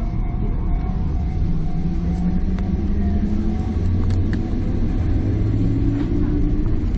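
Enoshima Electric Railway train running between stations, heard from inside the carriage: a steady low rumble of wheels and motors, with a faint hum and a few light clicks.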